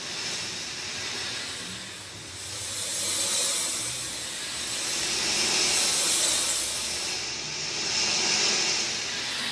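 Rain falling, a dense hiss that swells and eases in slow waves every two to three seconds.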